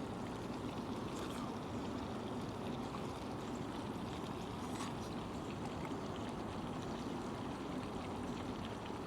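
Steady hiss of salmon and vegetables cooking in a skillet of butter on a stove, with a few faint crackles.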